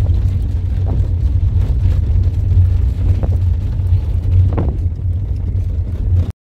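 Steady low rumble of a moving road vehicle heard from inside, with faint brief sounds over it.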